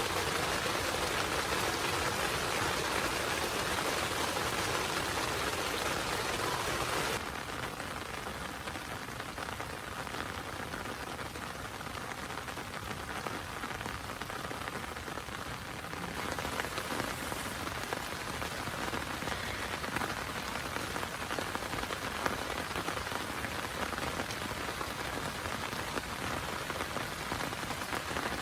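Heavy rain falling steadily, with dense pattering on a surface. It turns quieter about seven seconds in and grows louder again around sixteen seconds.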